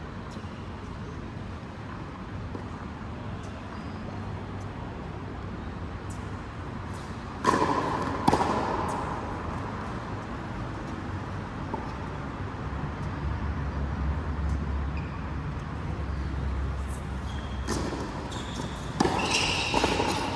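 A ball struck hard during a racket-sport rally, two sharp hits about a second apart some seven seconds in, each echoing in a large hall, then another quick run of hits near the end. Between them there is only low hall noise.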